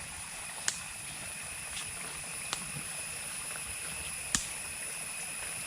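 Steady hiss of overflow water running over the ground and through a drain, with a handful of faint clicks.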